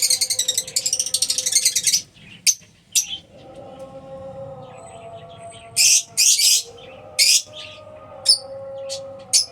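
Lovebirds calling: a fast, high chatter for about two seconds, then a string of short, shrill single calls every second or so.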